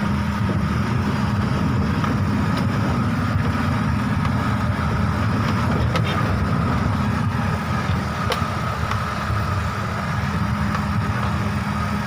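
Heavy diesel engine of mining machinery running steadily at idle, a constant low drone, with a couple of faint sharp clicks about six and eight seconds in.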